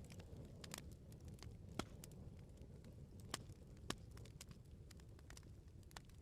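Wood fire crackling: scattered small pops and snaps over a low steady rumble of burning, with three louder pops in the middle.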